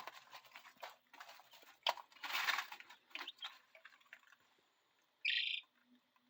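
Three-week-old chicks moving about in brooder bedding: irregular rustling, scratching and pecking taps, with a brief sharp higher sound about five seconds in.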